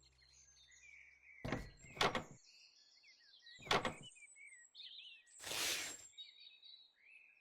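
Small birds chirping in the background, broken by four short noisy thuds or swishes, the sharpest about two seconds in.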